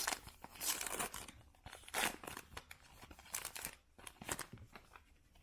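Baseball card pack wrapper being torn open and crinkled by hand, in a few short bursts.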